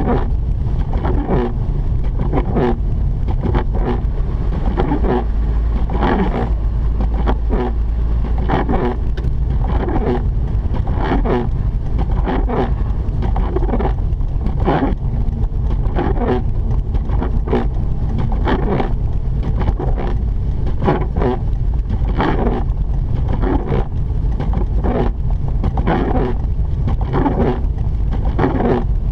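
Mazda RX-8 driving: a steady low rumble of engine and road. Over it, a regular repeating sound comes about once every three quarters of a second.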